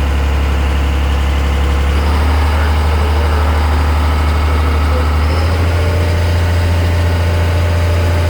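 Boat engine running steadily underway, a loud low drone that steps up slightly in pitch about five seconds in.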